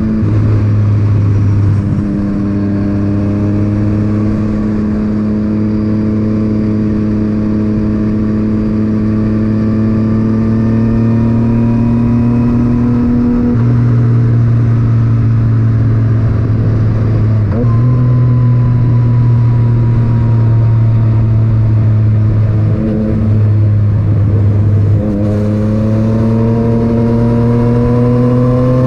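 Yamaha MT-09's inline three-cylinder engine through an Akrapovic titanium exhaust, ridden under steady throttle with the engine note climbing slowly and changing sharply about five times as gears are shifted.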